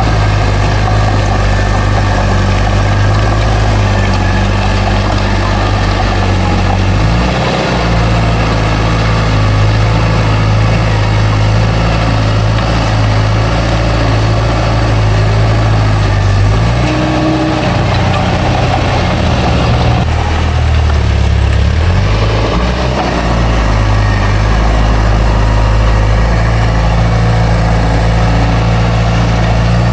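Heavy diesel engine of a bulldozer running steadily. Its note shifts about seven seconds in and again in the middle stretch before settling back.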